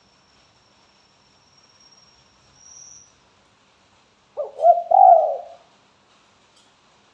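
Spotted dove cooing: one short phrase of low, bubbling coos about four seconds in.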